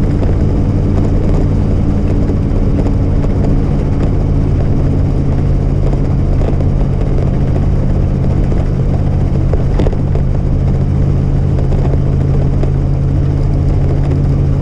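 Truck engine running steadily at an even pitch.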